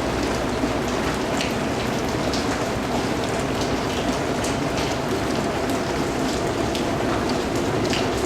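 Steady, heavy rain falling, a dense even hiss with individual drops pattering and splashing through it.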